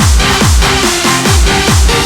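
Electronic dance track: a kick drum thumps steadily about twice a second under short repeating synth notes and hi-hats. The bass drops out for a moment about halfway through.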